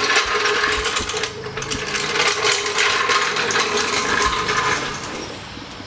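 Rapid, dense mechanical clicking like a ratchet, over a steady hum, dying away about five seconds in.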